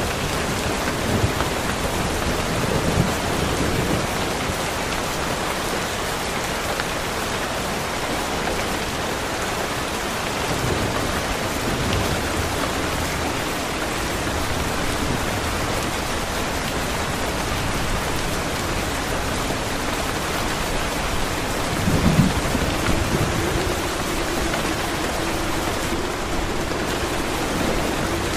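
Steady rain falling, an even hiss, with a brief low thunder rumble about three quarters of the way through. A faint steady low hum comes in after the rumble.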